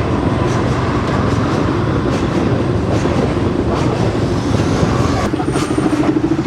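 A train running along the track: a steady rumble with repeated wheel clicks, and a steady hum that comes in about five seconds in.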